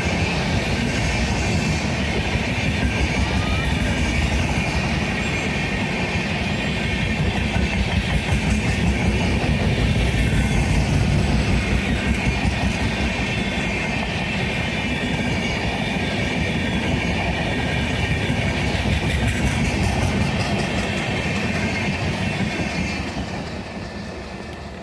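An Indian Railways express train passing at speed, with a steady rumble and the clatter of its wheels over rail joints. The sound dies away near the end as the train goes by.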